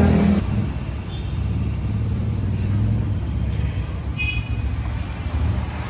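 Suzuki Shogun 110R motorbike engine settling from a rev to a steady low idle about half a second in. A brief high-pitched tone sounds a little past the middle.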